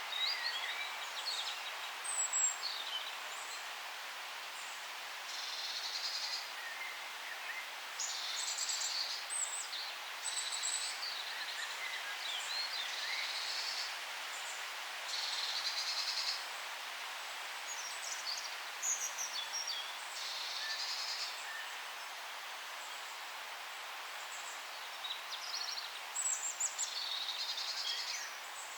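Several songbirds singing in a forest: short, high, repeated song phrases about a second long recur every few seconds, mixed with scattered chirps, over a steady soft hiss of forest background noise.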